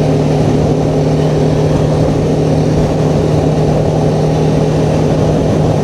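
BMW G310R's single-cylinder engine running at a steady cruising speed, holding one unchanging pitch, under a steady rush of wind and road noise.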